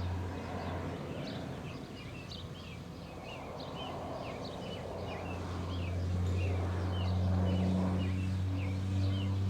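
Crop-duster airplane engine droning as a low, steady hum that swells louder over the second half as the plane comes nearer. Birds chirp repeatedly over it in short, quick calls.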